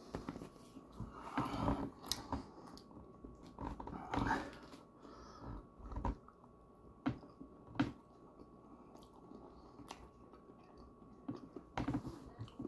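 Close-up chewing and mouth sounds of eating mincemeat pie, with scattered sharp clicks of a metal fork against the foil pie tin.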